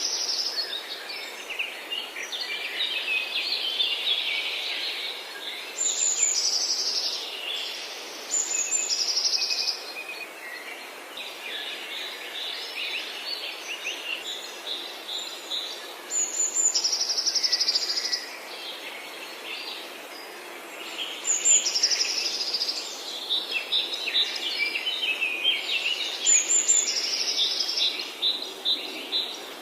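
Forest birds singing. One bird repeats a bright song phrase every few seconds that starts very high with a quick trill and then drops lower, while other birds chirp and twitter in between, over a steady background hiss.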